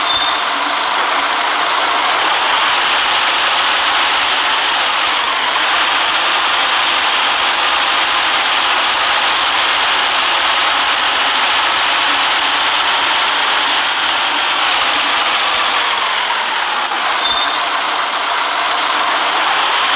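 City bus in motion: steady engine and road noise.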